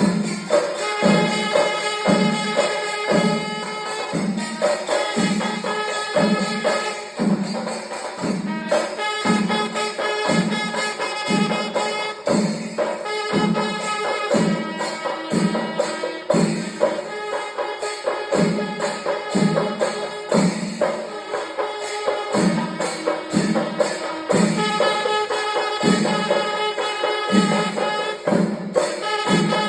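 Panchari melam, the Kerala temple percussion ensemble: chenda drums beating a steady rhythm of about one and a half strokes a second, with ilathalam cymbals ringing and held notes from wind instruments over them.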